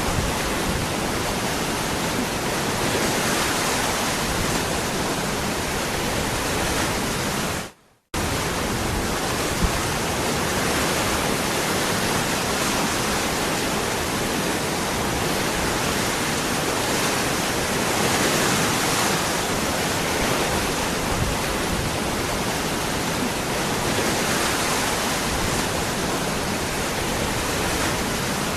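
Waterfall: steady rushing water. About eight seconds in it fades to silence for a moment, then starts again abruptly.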